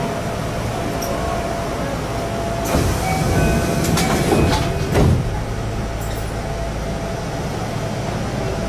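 Kintetsu express train standing at the platform, its equipment humming steadily. A few knocks and hisses about three to five seconds in come as the doors close.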